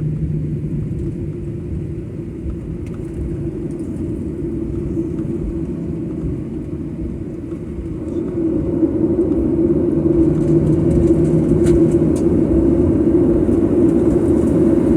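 Jet airliner cabin noise: a steady engine and rolling rumble from the taxiing plane, growing louder about eight seconds in.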